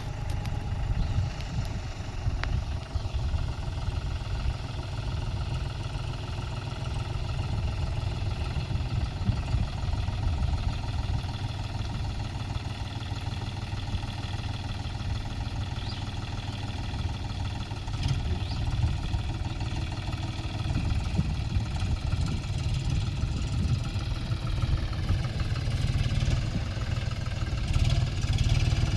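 John Deere 5050D tractor's three-cylinder diesel engine running steadily, its revs rising a little near the end.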